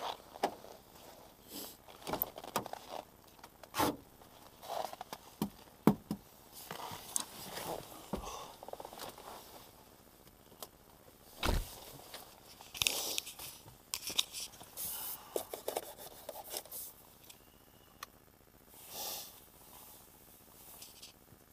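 Irregular scrapes, clicks and knocks of something being handled, with no engine running.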